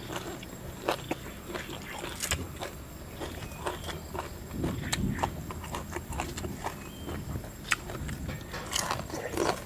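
Eating noises: chewing, with many small scattered clicks and knocks.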